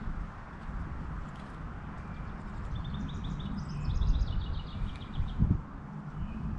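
Small songbirds chirping in rapid runs of short high notes, over a steady low rumble that swells about four seconds in and again near five and a half.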